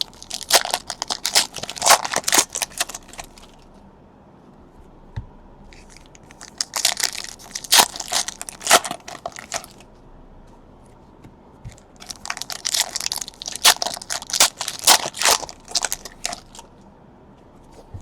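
Trading card pack wrappers being torn open and crinkled by hand, in three separate spells of crackling.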